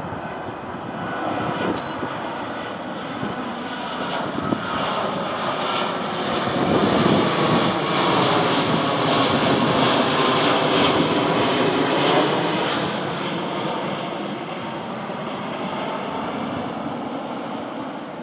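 Airplane passing low overhead toward the airport. Its engine noise builds, stays loud for several seconds in the middle, then fades away.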